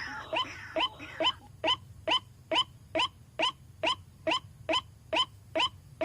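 White-breasted waterhen (ruak-ruak) calling: a tangle of overlapping calls for about the first second, then one rising 'kwak' note repeated evenly, a little over twice a second.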